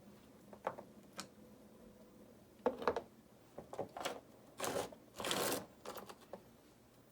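River rocks being handled and set into mortar: a scattering of clicks and knocks, with two short scrapes a little past the middle.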